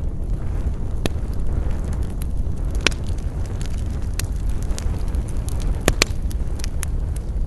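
Campfire burning: a steady low rumble with scattered sharp crackles and pops of burning wood, the loudest pops about three seconds in and a close pair about six seconds in.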